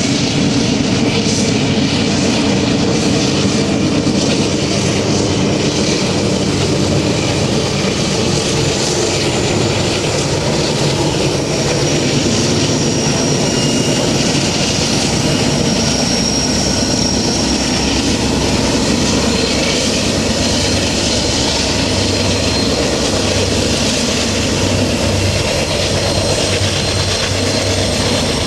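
A long train running past, with a steady, loud rumble that holds without a break.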